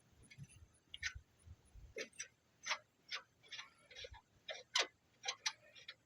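A string of light, irregularly spaced metallic clicks and clinks from hand tools being worked, about two a second, with a louder pair of clicks near the end.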